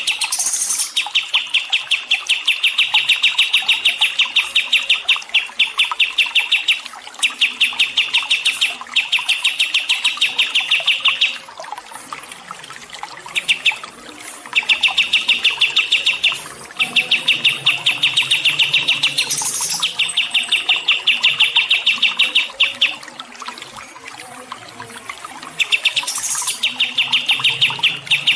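A songbird singing long, rapid, high-pitched trills of evenly repeated notes, in runs of several seconds broken by short pauses, with a few brief higher bursts.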